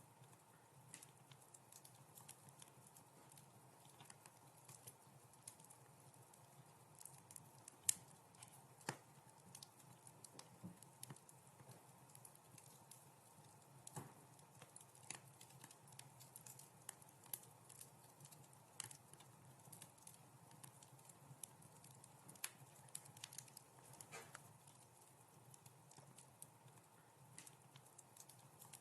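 Wood fire crackling in a fireplace: quiet, irregular sharp pops and snaps over a faint steady low rush, the loudest pop about eight seconds in.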